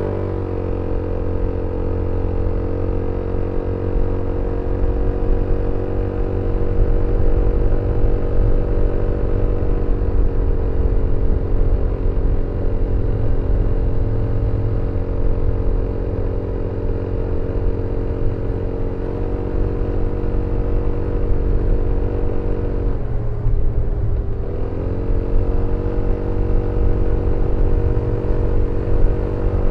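BMW C400X scooter's single-cylinder engine pulling under way, its pitch held nearly steady as the automatic transmission keeps the revs up. About three quarters of the way in, the revs drop briefly and then climb back.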